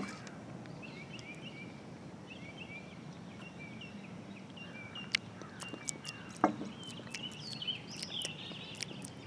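Small songbirds chirping in quick short notes, with scattered sharp taps or clicks in the second half, one louder tap about six and a half seconds in.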